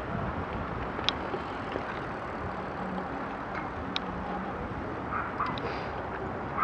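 Steady wind and rolling noise from a road bicycle moving slowly along a paved path, with a few faint clicks about a second in and near four seconds.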